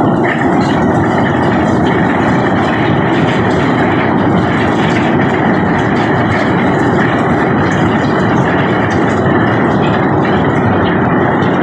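Heavy diesel machinery unloading cobblestone from a barge, running steadily, with a faint scattered rattle of stones over it.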